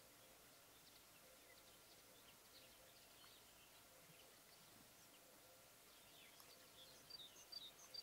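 Faint background hiss with scattered, faint, high chirps of small birds, and a short flurry of louder chirps near the end.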